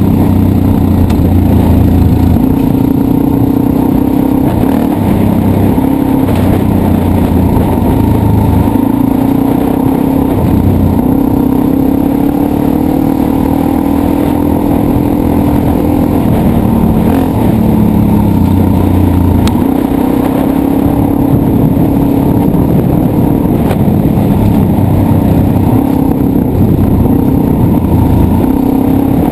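Dirt bike engine running under load, its pitch repeatedly rising and falling as it is revved up and eased off.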